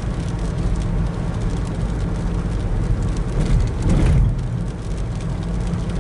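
Car engine and road noise heard from inside the cabin as the car drives, steady, with a brief swell about three and a half seconds in.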